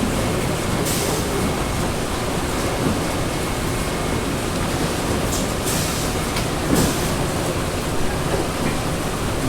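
Steady rumble of print-finishing machinery on a factory floor, with a few short clacks about a second in and again around six to seven seconds in.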